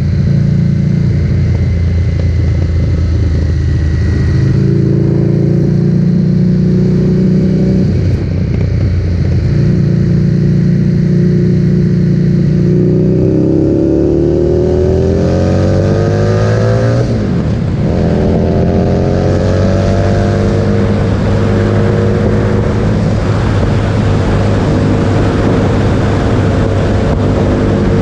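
Harley-Davidson Street Rod 750's V-twin engine running loud through a Vance & Hines aftermarket exhaust. It holds steady with short breaks, then the pitch climbs hard for a few seconds, drops sharply and climbs again, as under acceleration and a gear change, before settling into a steady run.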